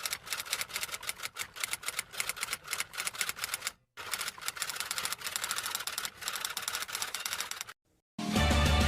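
Fast, irregular typing clicks of keys being struck, in two runs with a brief pause about four seconds in. The clicks stop near the end, and music starts just after.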